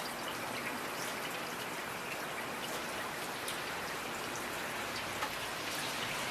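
Steady rain falling, an even hiss with scattered individual drops ticking on a nearby surface.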